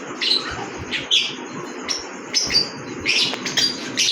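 Small cage parrots, cockatiels and lovebirds, chirping: short, sharp high calls repeated in quick clusters, several overlapping.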